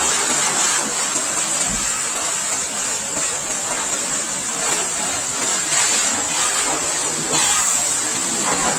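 Steady hiss of a high-pressure wash spray playing over a motorcycle, wavering slightly as the jet moves.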